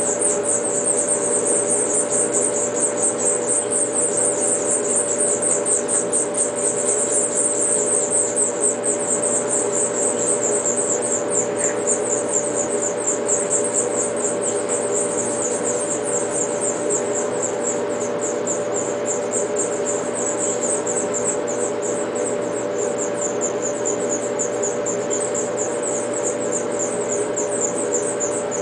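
House finch nestlings begging, a continuous high-pitched rapid chirping that eases somewhat in the second half, over a steady low hum.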